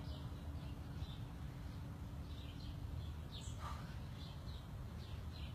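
Faint outdoor background with a series of short, high bird chirps scattered through it over a low rumble.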